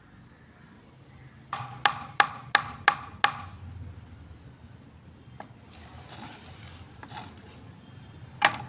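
Knife blade chopping on a wooden cutting board: six quick, sharp knocks with a slight ring, about three a second, then softer scraping and one last knock near the end.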